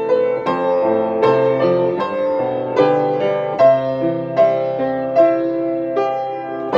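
Solo piano playing a slow ballad: a melody of struck, decaying notes over sustained chords and bass notes.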